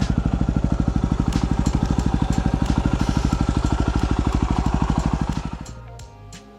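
Yamaha WR250R's single-cylinder four-stroke engine idling with an even, steady beat. The engine sound dies away about five and a half seconds in.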